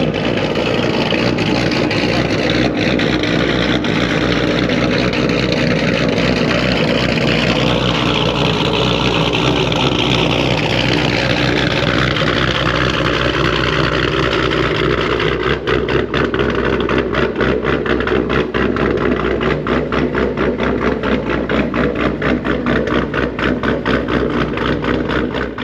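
Chevrolet Camaro with an aftermarket cam running through a new 3-inch X-pipe exhaust with 4.5-inch tips: revved in the first half, the pitch rising and falling, then settling into a pulsing idle.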